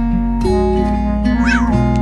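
Gentle background music on acoustic guitar, with sustained chords that shift about half a second in. A short cat meow rises and falls over it about one and a half seconds in.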